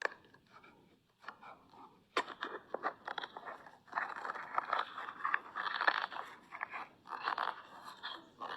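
Crunching and scraping, faint at first, then from about two seconds in a dense run of crackles coming in spells.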